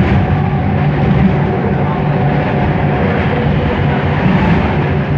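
Bombardier Innovia ART 200 metro train running, heard from on board: a steady hum of several tones from its linear induction motors over the rumble of the ride.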